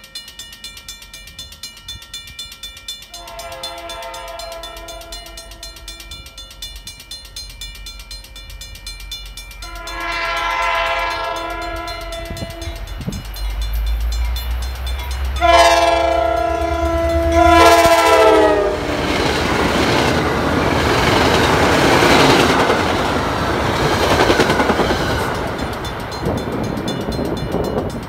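MBTA commuter rail diesel locomotive sounding its air horn in several long blasts as it approaches, the last blast dropping in pitch as it goes by. The engine rumbles past, followed by the coaches clattering and rumbling along the rails.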